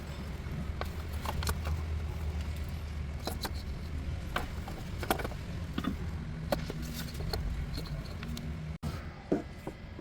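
Kia K3 Gamma II MPI engine running with a steady low hum, with irregular clicks and ticks over it. The sound cuts out for a moment near the end.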